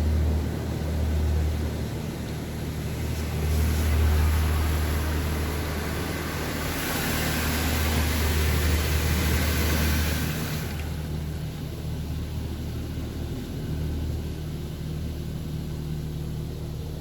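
A Coleman Hanna Water Wizard 1.0 touchless car wash spraying water over a car, with a steady low hum from the machine underneath. The spray is hissier and brighter from about seven to ten seconds in.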